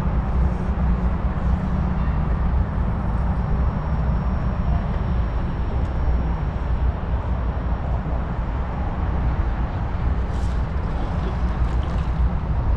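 Wind buffeting the microphone, a steady low rumble, over the even hiss of the creek's running water.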